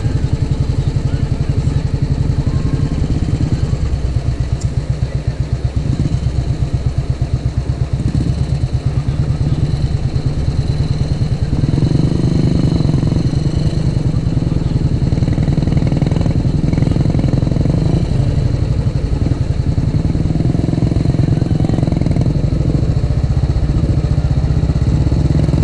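Royal Enfield motorcycle engine running with a quick, even low thump. It grows louder and fuller from about halfway through, as if given more throttle.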